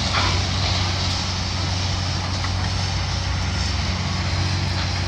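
A heavy diesel engine running steadily, a low drone at an even pitch, under a constant rush of wind noise.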